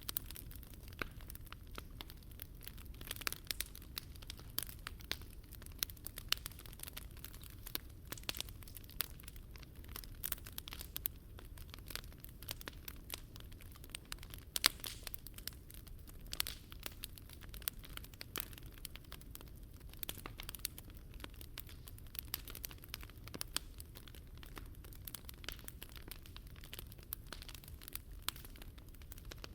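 Wood fire burning in a fire pit, crackling and popping steadily with many small sharp snaps, over a low steady rumble.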